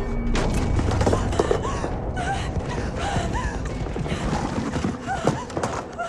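Battle-scene sound mix from a war film: scattered knocks and thuds, with many short rising-and-falling tones in the distance.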